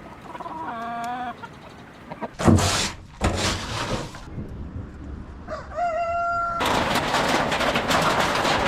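Chickens calling: a short wavering call about a second in, and another that rises and then holds level about two-thirds of the way through. The loudest part is a long stretch of even noise that cuts in right after the second call, with two shorter bursts of noise before it.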